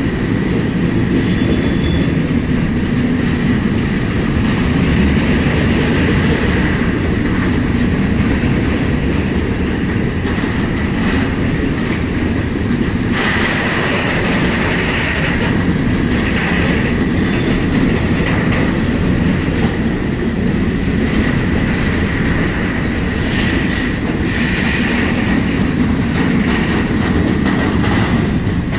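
A long freight train of tank wagons rolling past, wheels clacking over rail joints, with a faint steady wheel squeal.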